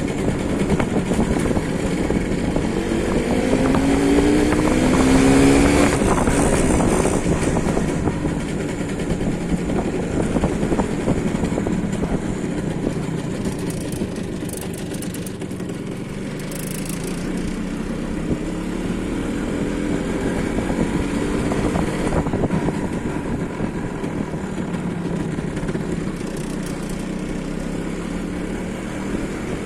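MZ ETZ 150's single-cylinder two-stroke engine running steadily, its pitch climbing a few times as it revs up.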